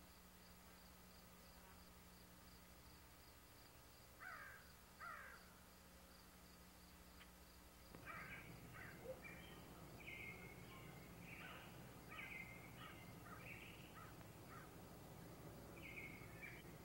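Faint birds calling over a low steady hum: two short falling calls about four seconds in, then several birds chirping and chattering from about eight seconds in.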